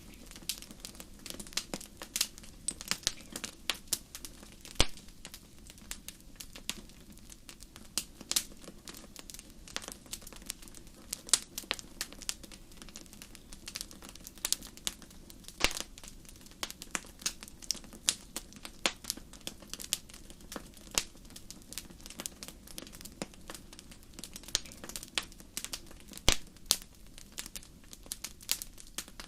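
Wood fire in a fireplace crackling, with irregular sharp pops several a second over a faint, steady low background of the burning fire; a few louder pops stand out, about 5, 16 and 26 seconds in.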